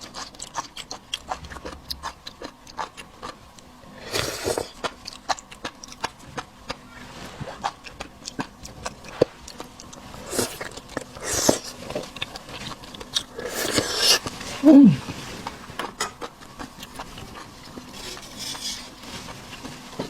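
Close-up wet chewing of seafood, with constant small smacking clicks and several hissy slurps or sucks. About fifteen seconds in there is a short falling hum from the eater.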